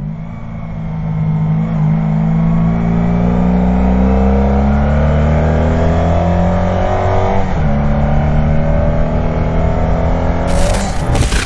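Motorcycle engine pulling hard, its pitch climbing steadily, with a shift up a gear about seven and a half seconds in. Electronic music comes in near the end.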